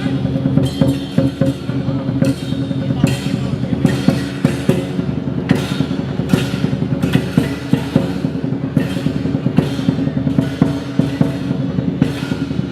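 Chinese drum-and-cymbal ensemble playing live, with a big drum beating a fast, busy rhythm under crashing cymbals.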